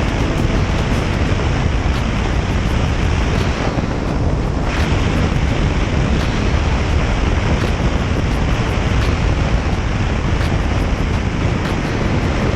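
Steady wind rushing over the microphone of a camera riding along on a moving motorcycle, a constant low rumble with no distinct engine note.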